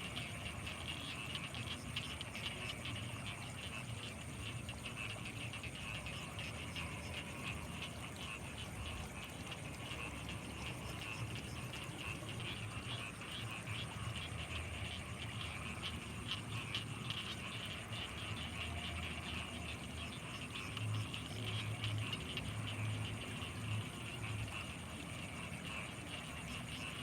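Night chorus of frogs and insects around rice paddies: a steady, dense chatter with a constant high thin whine above it, and low pulsing croaks that come up briefly near the end.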